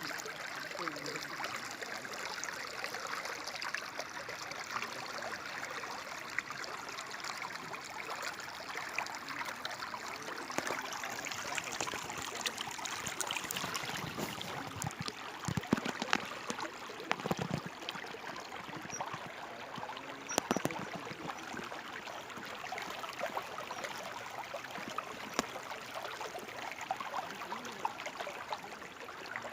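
Small stream of water trickling and flowing steadily, with a few sharp knocks about halfway through.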